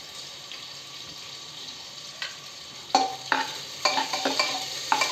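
Sliced onion frying in a little hot oil in a metal pressure cooker, a faint steady sizzle. From about three seconds in, the onions are stirred, with a run of sharp ringing clinks as the utensil knocks against the pot.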